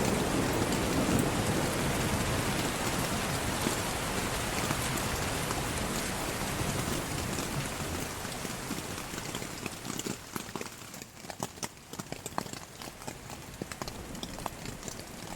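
Heavy rain falling, with a low rumble of thunder dying away at the start. The downpour slowly eases, and from about ten seconds in single drops strike separately.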